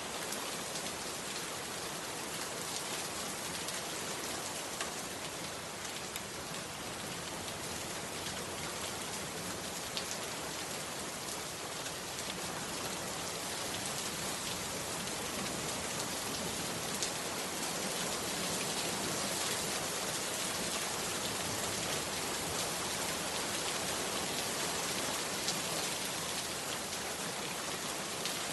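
Heavy rain pouring steadily on a bamboo hut, an even hiss flecked with sharper ticks of single drops.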